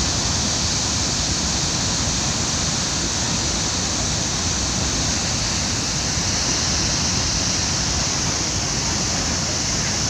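Tegenungan waterfall pouring: a steady, loud rush of falling water with no let-up.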